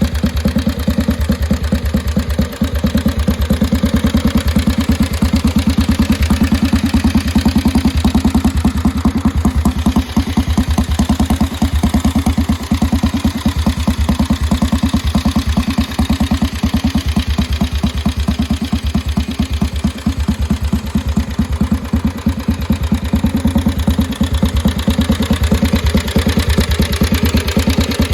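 1929 Norton Model 18's 490 cc single-cylinder overhead-valve engine running at a steady idle, an even beat of firing pulses throughout.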